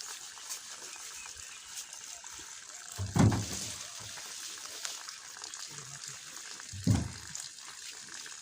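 Water sloshing and splashing as hands work in shallow muddy water, with two louder splashes about three and seven seconds in.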